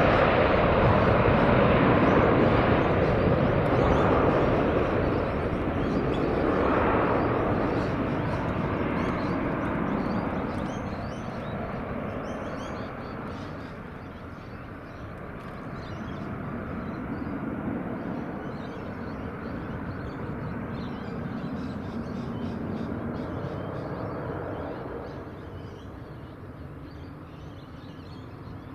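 Airbus A330-300 jet engines after takeoff, a loud, even roar that fades steadily with a few small swells as the airliner climbs away.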